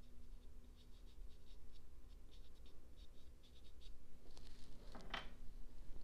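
Soft pastel being worked on paper: a run of short, light scratchy strokes, then a louder stretch of rubbing about four to five seconds in.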